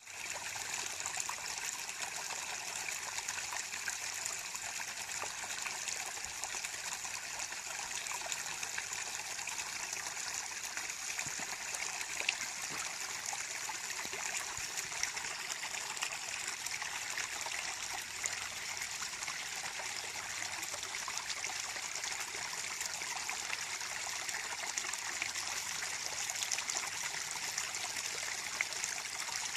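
A small stream trickling and burbling over stones, a steady splashing hiss with small ticks of water droplets.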